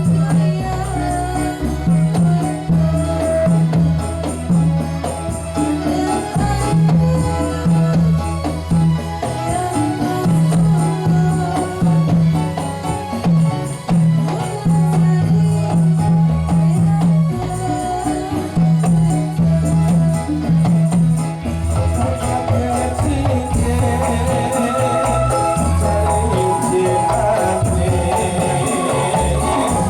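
Ndolalak music, traditional Javanese dance music, played live by the ensemble: drums keep a steady beat under jingling percussion and a melodic line. The drum pattern changes about two-thirds of the way through.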